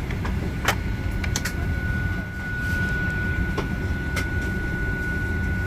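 Boeing 737-800 cabin noise on the ground: a steady low rumble with a thin, steady high-pitched whine, and a few short clicks about a second in and again near the middle.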